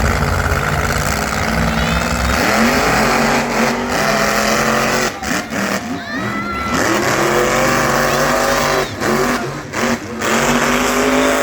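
Monster truck engines revving at the start line, the pitch climbing and falling several times over a steady rumble.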